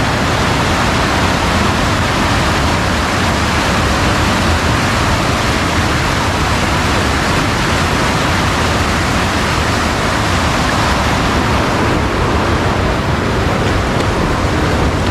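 Steady, loud rush of fast-flowing water, a strong current swollen after rain.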